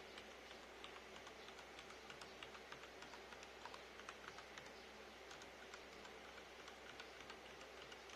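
Faint, irregular clicking of keys pressed in quick succession on a mechanical keyboard with Cherry MX Red switches, several clicks a second, over a steady low hum.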